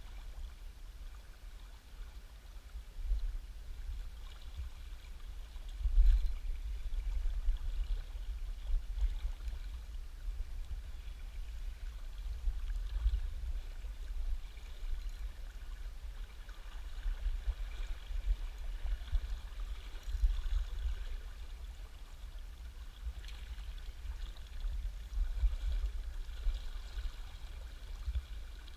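River water running steadily, with an uneven low rumble on the microphone that swells and fades several times.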